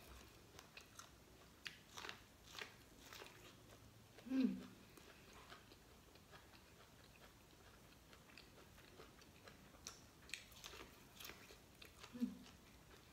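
Close-up mouth sounds of corn on the cob being bitten and chewed: scattered soft crunchy clicks. Twice, about four seconds in and near the end, a brief low hum.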